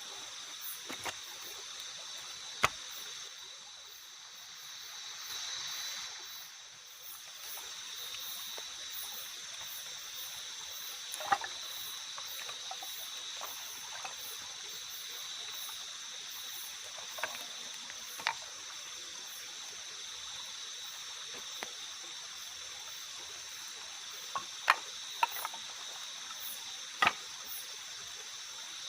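Night forest ambience: a steady insect chorus of high, even tones with a faster pulsing chirp above it, over a soft watery hiss. About half a dozen sharp ticks come at uneven intervals, several close together near the end.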